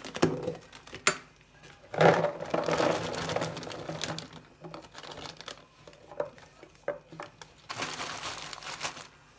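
Handling sounds of kitchen food preparation: rustling and crinkling, louder for a couple of seconds about two seconds in and again near the end, with scattered light clicks and knocks of kitchen items.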